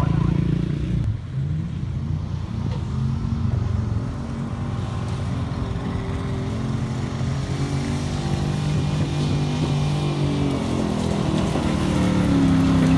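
Truck engine running hard, dipping briefly about a second in, then holding a steady note whose pitch and loudness climb slowly toward the end.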